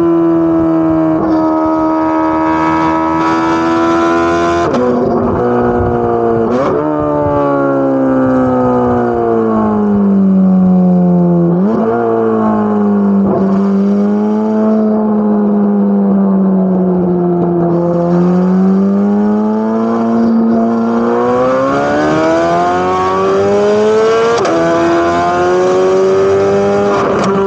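Corvette C8 Z06's naturally aspirated flat-plane-crank V8 running at high revs, its pitch sliding down and climbing again several times, with a few sudden jumps in pitch as the revs change quickly.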